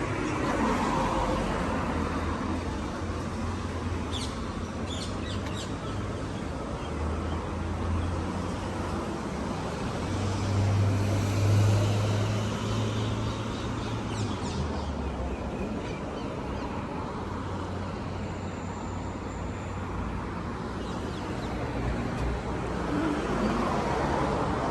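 Road traffic noise: a steady low vehicle rumble that swells for a few seconds near the middle, with a few faint clicks.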